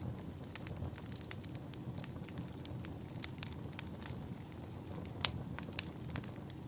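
Wood fire crackling in a fireplace: irregular sharp pops and snaps over a steady low rumble, with one louder pop about five seconds in.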